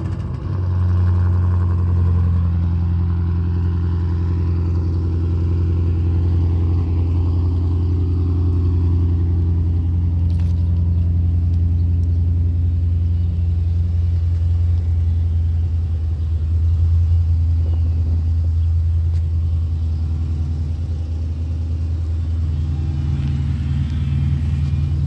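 Chrysler 300 SRT8's 6.1-litre Hemi V8 idling steadily through its dual exhausts just after a cold start: a constant low rumble.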